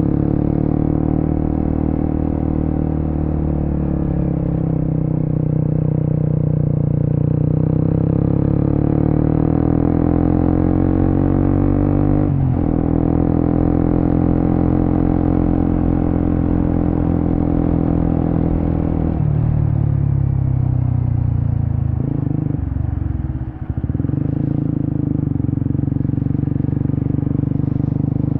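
Suzuki GSX-S150's single-cylinder engine through an aftermarket Quinze big-volume exhaust, under way: the revs climb and drop sharply at two gear changes, then ease off briefly before pulling steadily again.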